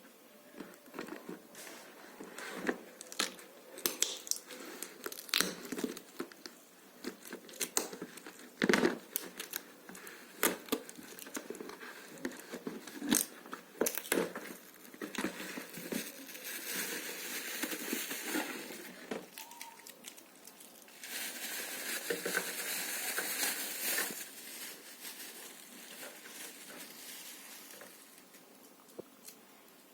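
Hair dryer packaging being unwrapped and handled: crinkling plastic and cardboard with many small crackles and rustles, then two longer stretches of steady rustling in the second half.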